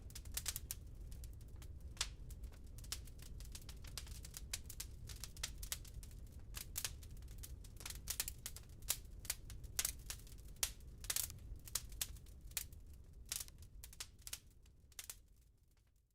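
Wood fire crackling in a fireplace: irregular sharp pops and snaps of burning logs over a low rumble of the flames, fading out near the end.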